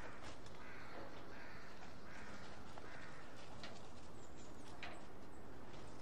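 Birds cawing, crow-like, several times over a steady outdoor background, with a few light clicks.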